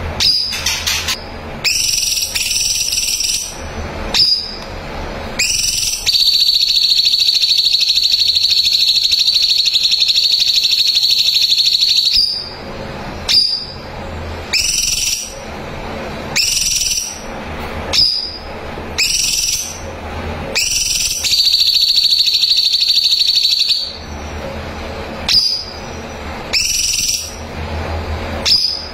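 Cucak cungkok singing: short whistled phrases repeated every second or so, and twice a long, steady, high trill held for several seconds. A faint low hum runs underneath.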